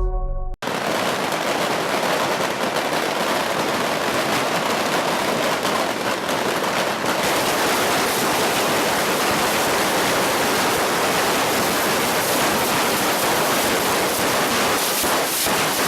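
Fireworks crackling densely and without pause, countless small pops running together into a steady hiss, starting abruptly about half a second in.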